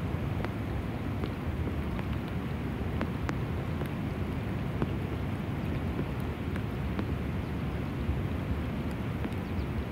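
Steady rain falling on the river, a constant low rumbling wash with scattered sharp taps of drops.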